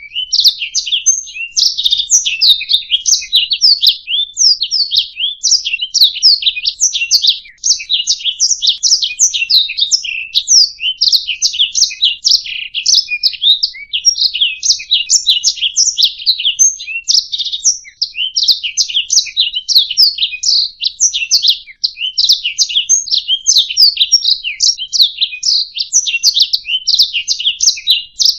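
Domestic canary singing a long, rapid song of fast chirps and trills, with only brief breaths now and then.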